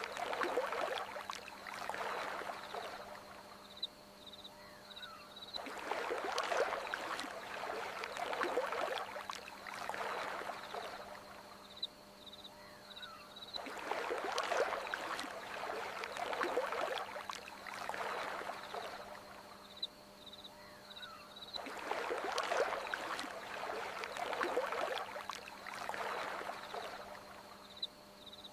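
Water washing in surges, two swells about every eight seconds in an identical repeating cycle, with faint short high chirps in the lulls and a steady low hum underneath.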